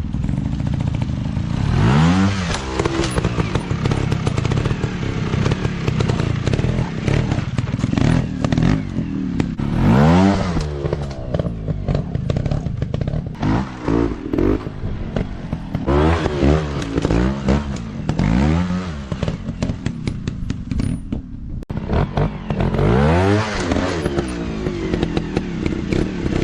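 Dirt bike engines running, with repeated throttle revs rising in pitch over a steady low engine note; the revs come a few seconds apart, with a quick run of them in the middle.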